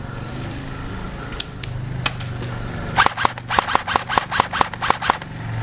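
Airsoft gun firing: a few single shots, then a quick string of about a dozen shots, roughly six a second, lasting about two seconds.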